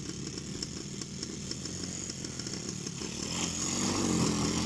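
Orion ATV's engine running and driving through snow, getting louder about three seconds in as it is revved harder under load.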